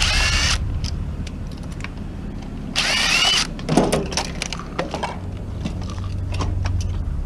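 Cordless drill-driver whirring in two short bursts, each about half a second, at the start and about three seconds in, its pitch rising as it spins up. Clicks and rattles of plastic parts being handled come between the bursts, over a steady low hum.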